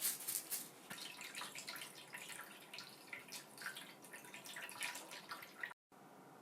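A rapid, irregular run of small clicks, ticks and scrapes, with a wet, dripping quality, that cuts off abruptly near the end, leaving a faint steady hiss.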